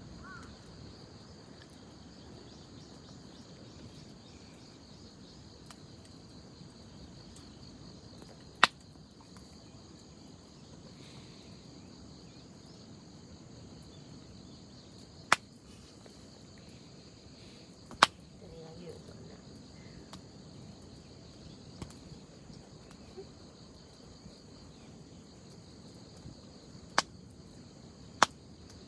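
Wood fire burning with a low steady rustle, broken by about five sharp, widely spaced pops. Insects chirp steadily throughout.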